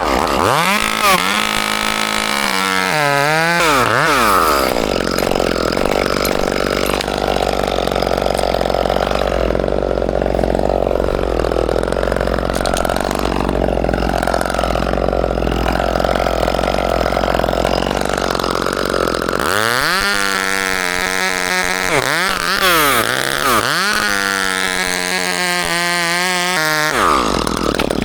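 Two-stroke chainsaw revving up and down in short blips, then running steadily at high speed for about fifteen seconds, then blipping the throttle up and down again near the end. A steady low rumble runs underneath.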